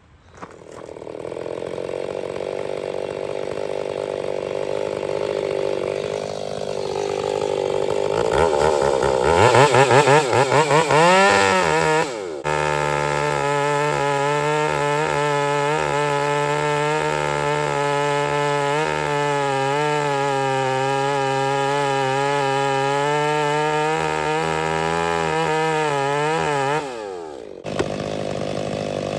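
Chainsaw running into a cut in a big dead pine. It runs unevenly for the first several seconds, surges up and down in revs from about eight seconds in, then holds at steady full throttle for about fifteen seconds under load, and the revs drop near the end.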